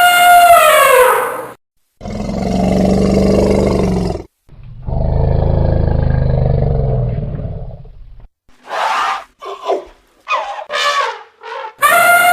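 Elephant calls. A trumpet blast falls away and stops about a second and a half in, followed by two long, low roars and then a few short, higher calls. Another trumpet begins near the end.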